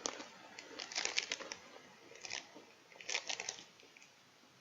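Chewing a crunchy Pepero White Cookie biscuit stick: faint crisp crunches in four short clusters about a second apart.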